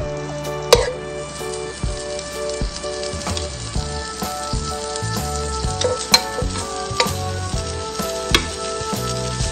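Pork belly pieces sizzling in a hot nonstick frying pan. There are sharp taps as more pieces are dropped in, the loudest about three-quarters of a second in and others near the end. Background music with bass notes plays under it.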